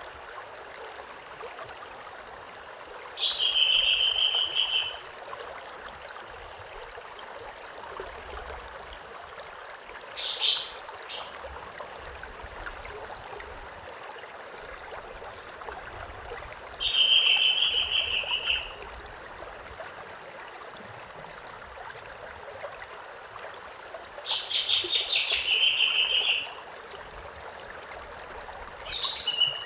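A songbird repeating a short buzzy trill about every seven seconds, with a pair of quick sharp chirps in between, over the steady rush of a running stream.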